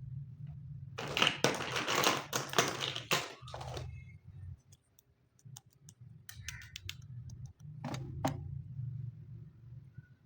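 Small plastic toy kitchen pieces and packaging being handled: a rapid run of clicks and rattles for about three seconds, then scattered taps and two short clatters, over a faint low hum.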